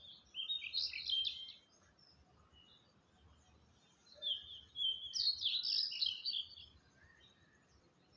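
A songbird singing two quick, warbling phrases of high notes, the second longer, with a pause of a few seconds between them.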